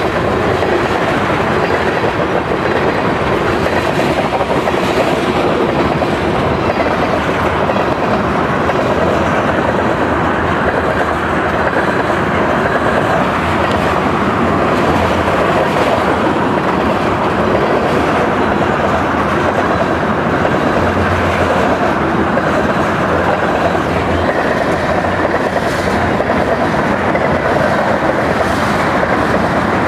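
A long freight train of petroleum tank wagons rolling past, a steady loud rumble of wheels with a clickety-clack over the rail joints.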